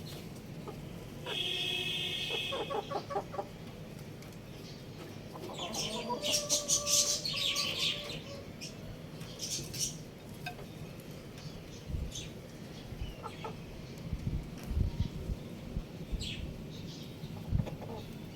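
Young rooster chirping and clucking, with a longer pitched call about two seconds in and a louder, raspier burst of calls around six to eight seconds in. Low thumps follow in the later part.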